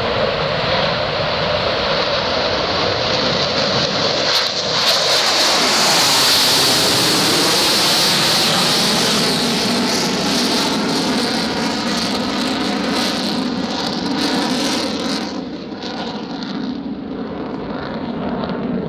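F/A-18 jet making a low, fast fly-by. The jet noise builds to its loudest about six seconds in, then fades with a falling pitch as the jet moves away.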